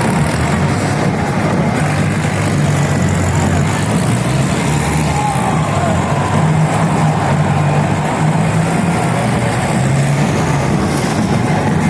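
Race vehicle engines running at the circuit: a loud, steady engine noise whose low note shifts in pitch now and then.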